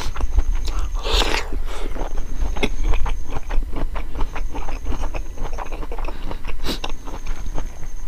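Close-miked chewing of a mouthful of cucumber and chicken gizzard: a steady run of wet crunches and mouth clicks, with a louder crunch about a second in.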